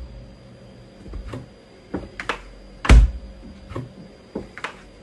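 A series of irregular knocks and taps, about eight in all, the loudest about three seconds in.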